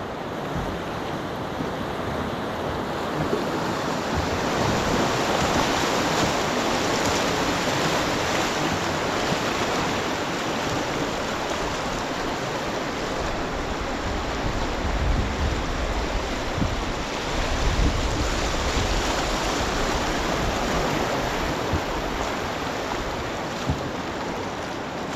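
River water rushing steadily around a rowed raft, swelling louder for a while early on, with some low rumbling of wind on the microphone in the second half.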